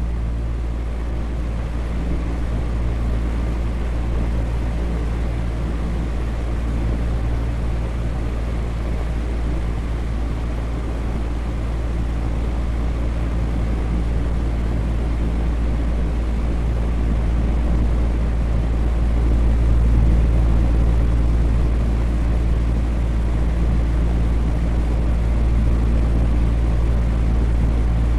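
Electric fan running steadily: an even rush of air over a low hum with a few steady low tones, swelling slightly about two-thirds of the way through.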